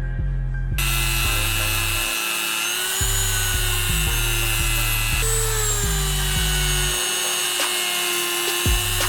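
A small high-speed rotary tool starts about a second in and runs with a steady whine, its pitch shifting about five seconds in, over background music with a steady beat.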